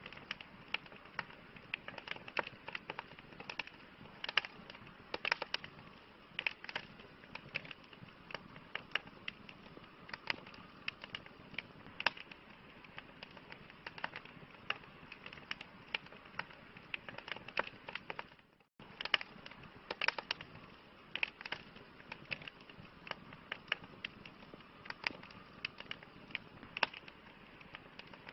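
Campfire crackling: irregular sharp snaps and pops of burning wood over a soft steady hiss. The sound drops out for a split second about two-thirds of the way through.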